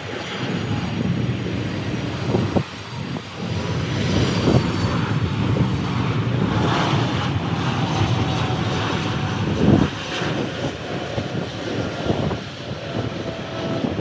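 Jet airliner coming in to land, its engines making a heavy, steady rumble with a faint high whine that falls slightly in pitch. A few sharp low thumps are mixed in.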